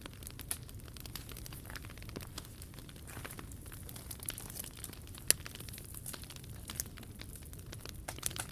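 Wood fire crackling: irregular small snaps and pops over a low steady rumble, with one sharp louder pop about five seconds in.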